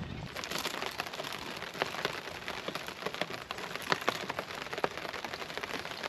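Rain falling, with many separate drops striking a surface close by as sharp, irregular ticks over a steady hiss.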